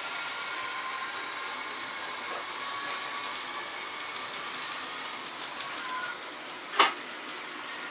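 H0 scale model trains running on the layout: a steady rolling hiss with faint electric motor whines. A single sharp click near the end.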